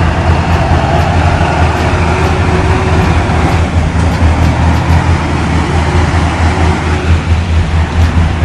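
Motor vehicle engine running with a steady, deep rumble.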